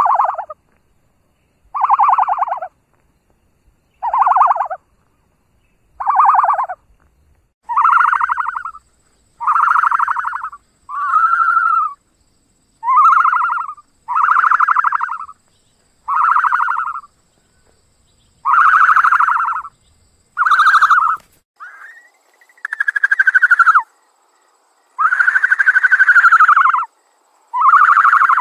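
An animal calling over and over: short pitched calls, about one every second or two, growing longer and closer together later on.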